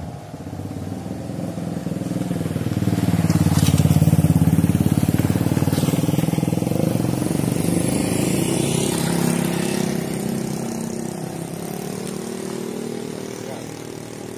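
Motorcycle engine passing by: it grows louder over the first few seconds, peaks about four seconds in with its pitch bending, then fades slowly away.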